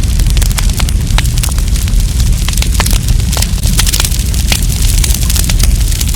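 Wood campfire burning, with many sharp, irregular crackles and pops over a steady low rumble.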